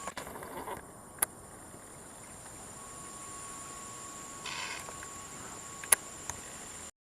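Insects drone with a steady high tone through an oil palm plantation. A short harsh bird call comes about four and a half seconds in, and a few sharp clicks sound, the loudest near six seconds in.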